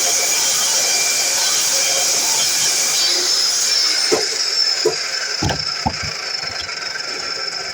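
DeWalt miter saw running with a loud high hiss and whine, which winds down in pitch a few seconds in, followed by four short knocks.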